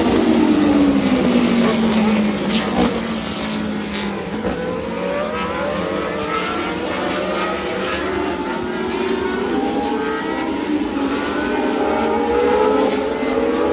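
Several historic race car engines at high revs on track. One car's pitch falls away as it passes in the first two seconds. Then several engines are heard accelerating, their pitch climbing, dropping at each gearchange and climbing again.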